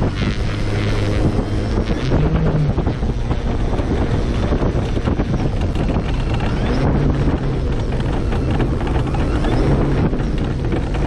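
Airflow buffeting a wing-mounted action camera in flight, over the drone of a large RC airplane's Hacker A100-10 electric motor and propeller. The motor's pitch rises and falls briefly a couple of times.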